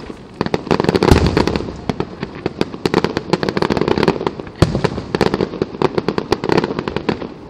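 Fireworks finale barrage: a dense, unbroken run of shell bursts and crackling reports, several a second, with heavy booms about a second in and again past the middle.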